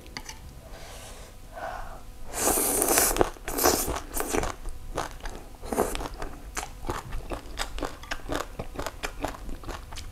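Close-miked eating sounds: a loud slurp about two seconds in as strands of shredded green mango salad are sucked into the mouth, a couple more shorter slurps, then crisp crunchy chewing with many small sharp crunches a second.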